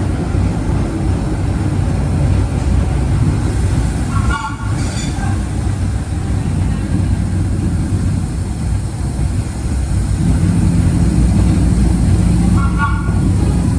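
Vintage 1930s R1-9 New York City subway train running on the rails: a steady heavy rumble of wheels and running gear, with a steady hum joining in about ten seconds in.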